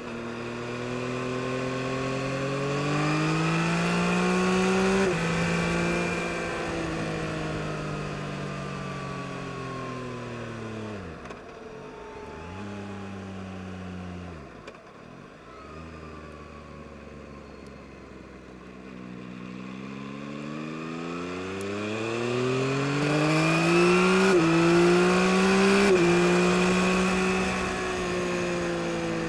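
2022 Yamaha MT-09 SP's 890 cc inline three-cylinder engine accelerating hard through the gears, its pitch climbing and then dropping sharply at each quickshifted upshift. In the middle it falls away as the bike slows, with a few quick dips and a low steady stretch, before it revs up again through two more upshifts.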